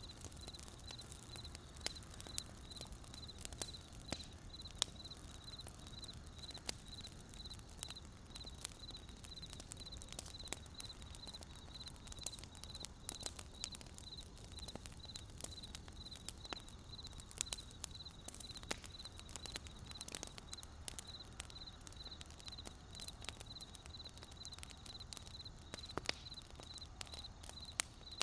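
Campfire wood crackling, with frequent sharp pops over a low steady rumble. Behind it a high chirp repeats evenly, about two or three times a second.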